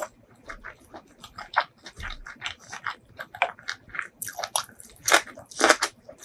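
Close-miked chewing of a handful of rice with beef tripe curry and spinach: wet, squishy mouth sounds and smacking, with a run of louder crunchy bites near the end.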